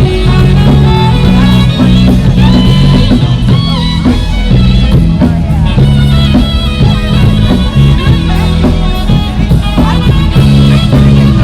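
Live rock band playing with drums, bass and guitar.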